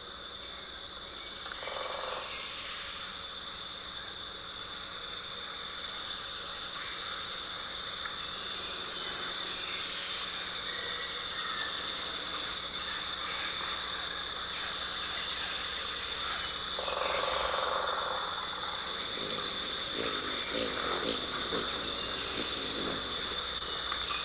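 A steady chorus of calling animals, with two high pitches held throughout, the upper one pulsing about twice a second, and a few faint higher chirps mixed in.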